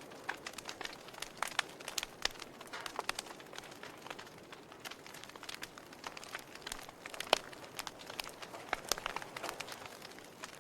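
Wood fire in a fireplace crackling: irregular pops and snaps over a soft hiss, with one sharper pop about seven seconds in.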